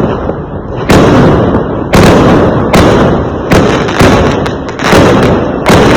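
Fireworks exploding: six loud bangs, roughly one a second, each trailing off in a rumbling echo.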